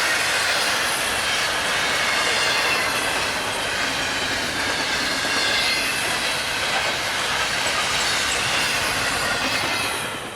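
Freight train passing at speed: a steady, loud rush of wheels on rail with a faint high wheel squeal over it. It cuts off suddenly at the very end.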